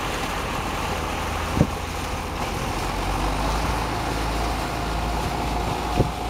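Belarus tractor's diesel engine running steadily while puddling a flooded rice paddy, with two short thumps, one about a second and a half in and one near the end.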